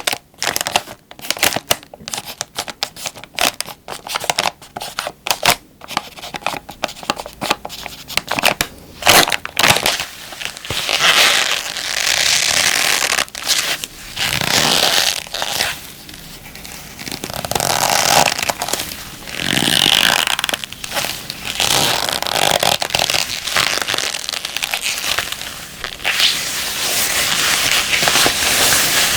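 Crinkly plastic packaging being crinkled and crushed by hand. It makes rapid crackles for about the first ten seconds, then longer, fuller swells of rustling.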